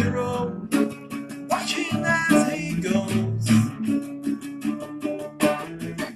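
Acoustic guitar being strummed in a steady rhythm.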